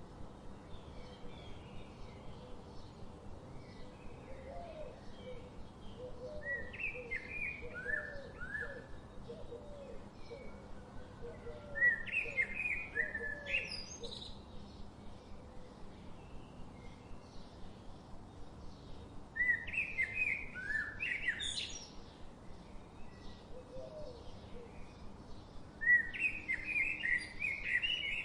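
Wild birds singing. One bird repeats a loud phrase of quick chirps ending in a rising sweep, four times, about every six to seven seconds. Fainter chirping and a lower run of short notes continue between the phrases.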